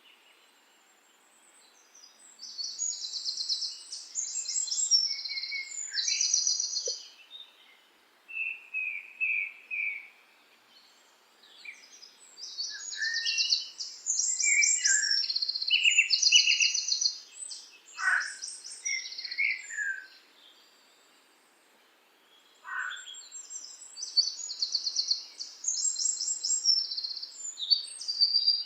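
A songbird singing in long bouts of fast, high-pitched trills and chirps, three bouts separated by short pauses.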